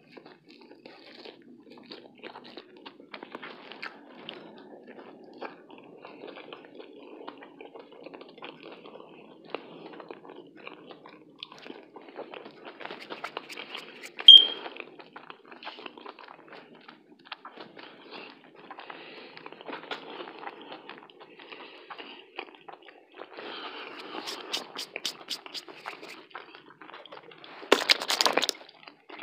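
Close-miked mouth sounds of pizza being chewed, with small crunches and smacks of crust throughout. Near the end there is a louder burst of crackling as a plastic drink bottle is handled and its cap twisted off. About halfway through comes one brief, sharp high-pitched blip.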